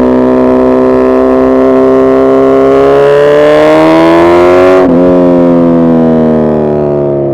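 Suzuki Hayabusa's inline-four engine pulling hard, its pitch climbing steadily for about five seconds, then dropping sharply and falling away slowly.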